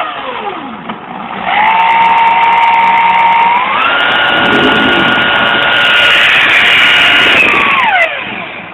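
A power tool's motor whining as it spins a washing-machine motor converted into a permanent magnet alternator. It winds down, starts up again, steps up to a higher speed partway through, then winds down near the end.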